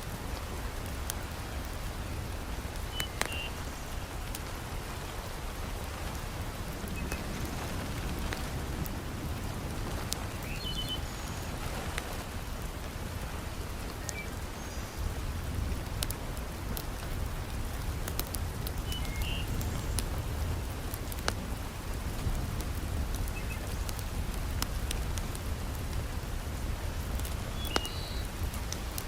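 Heavy rain falling steadily, with a deep low rumble beneath it and scattered sharp crackles and pops from a wood fire in a fireplace.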